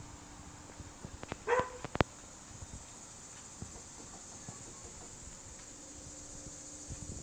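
A dog gives one short bark about a second and a half in, followed by a sharp click, over a steady high-pitched hiss like insects chirping.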